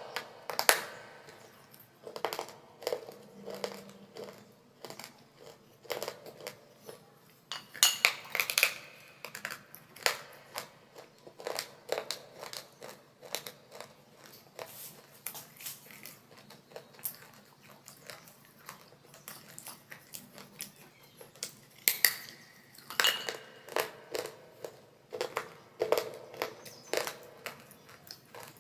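Baked clay pieces from a mini diya and clay pot glass being bitten and chewed close to the microphone: sharp, irregular crunches about one or two a second, loudest in clusters around eight seconds in and again around twenty-two seconds in.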